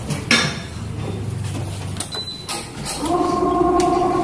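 Badminton stringing machine's tensioning motor running with a steady hum, starting about three seconds in as it pulls the string to 30 lbs, after a few clicks of the string and racket being handled.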